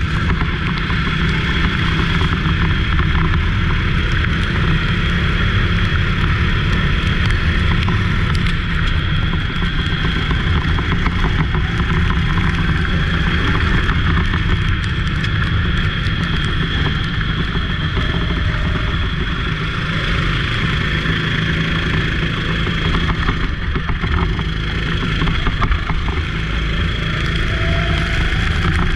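Racing go-kart engine running hard and continuously, loud and steady throughout, with no pauses.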